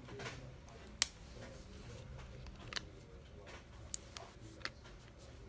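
A few small, sharp clicks and taps of hard parts being handled in a phone repair, the sharpest about a second in, over a low hum.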